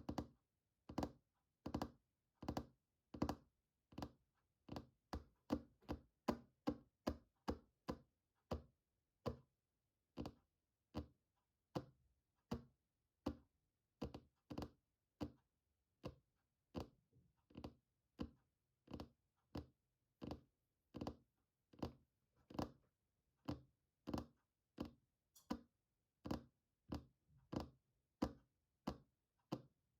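Fingertips tapping on a hard object in a steady, unhurried rhythm, about two soft taps a second with short silences between.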